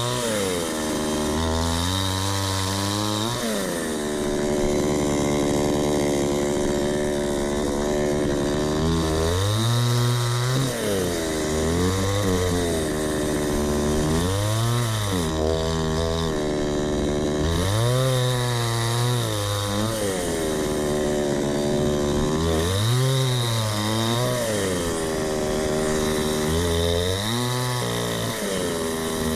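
Two-stroke chainsaw cutting through a fallen gum tree trunk. It runs continuously, its engine pitch sagging as the chain bites into the wood and rising again between cuts, about eight or nine times.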